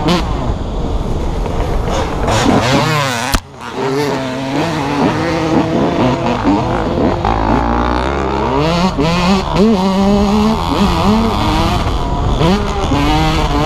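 Dirt bike engines revving up and down as they ride, their pitch rising and falling with the throttle.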